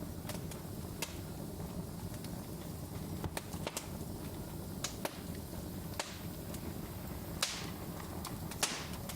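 Wood fire in a fireplace crackling, with irregular sharp snaps and pops over a steady low rumble of the flames; two louder pops near the end.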